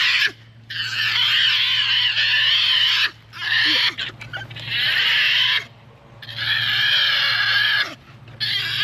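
A miniature potbelly pig squealing as it is put into its bath water: five long, high-pitched, wavering squeals in a row with short breaks between them.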